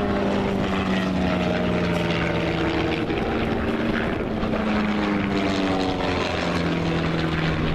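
Propeller airplane engine droning as it flies past, with its pitch slowly shifting.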